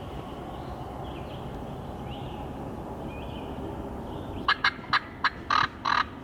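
Wild turkey gobbling loud and close, starting about four and a half seconds in: a quick run of short notes that lengthen toward the end. Faint small-bird calls sound beneath it before the gobble.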